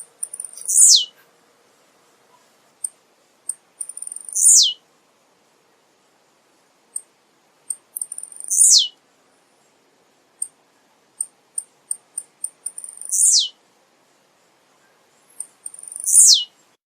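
Male blue-black grassquit (tiziu) singing: five short, very high songs about every four seconds, each a quick downward sweep. Brief high chips come between them.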